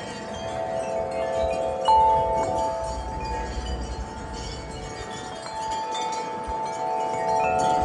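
Wind chimes ringing in gusty wind, several overlapping notes hanging on, with one loud strike about two seconds in. A low wind rumble comes in midway.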